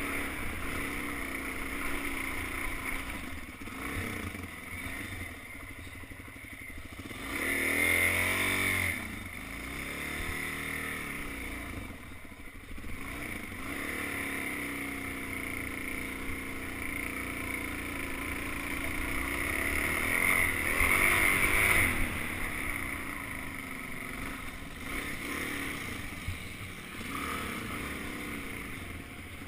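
Suzuki DR-Z400 dirt bike's single-cylinder four-stroke engine being ridden, revving up and down with the throttle. It is loudest in two surges, about eight seconds in and again around twenty seconds in.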